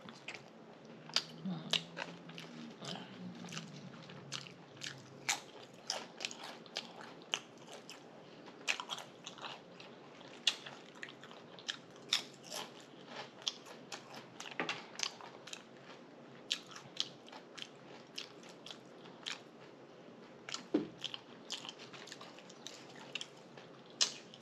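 A person biting and chewing a tuna fish sandwich close to the microphone, with many sharp, irregular wet mouth clicks, smacks and crunches.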